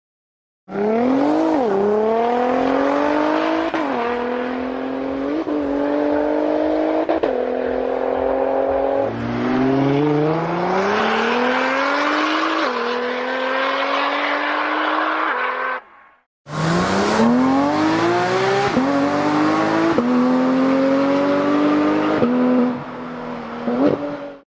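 A car engine accelerating hard up through the gears, its pitch climbing and dropping back at each upshift. It stops briefly about sixteen seconds in, then a second run of full-throttle acceleration and upshifts follows.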